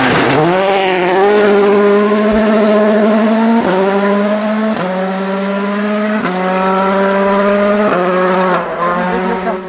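Rally car engine accelerating hard out of a corner and up through the gears: the pitch climbs and drops sharply at each of about four quick upshifts, with a short crack at each gear change.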